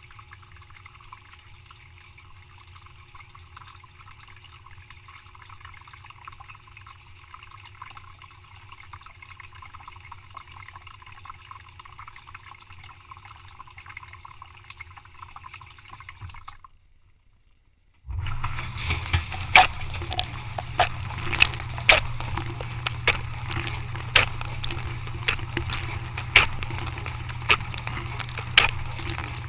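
Dishwasher running, with a faint steady rush of water. About two-thirds of the way in it cuts out briefly, then comes back louder with a steady low hum and sharp clicks about once a second.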